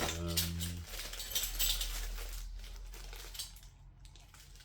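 Rustling and light clicking of diesel heater kit parts and their packaging being handled, fading toward the end, after a brief hum from a voice at the start.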